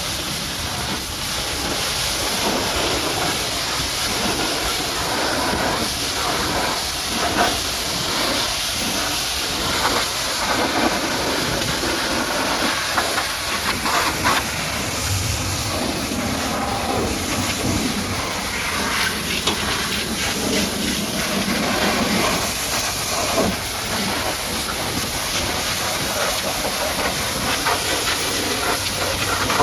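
High-pressure water jet spraying a mud-caked truck: a steady hiss of water, with uneven spatters as the jet strikes different surfaces.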